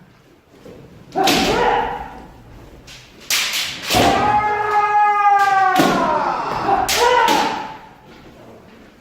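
Kendo sparring: sharp cracks of bamboo shinai strikes and stamping feet, with loud kiai shouts. About four seconds in comes one long held shout that drops in pitch as it ends.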